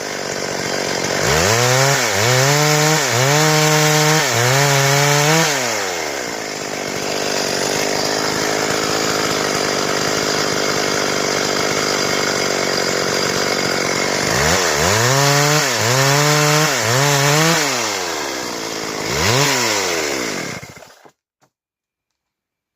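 Stihl chainsaw revving up and down in repeated bursts, then running steadily for several seconds while cutting through wood. It revs again a few times, then the sound stops abruptly near the end.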